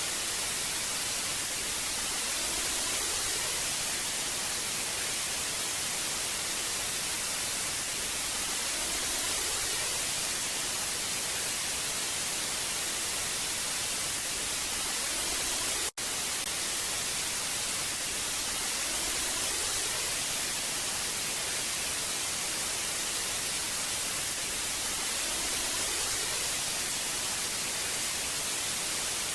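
Old analogue TV static: a steady hiss, strongest in the treble, with a faint slow swell every few seconds. It cuts out for an instant about 16 seconds in.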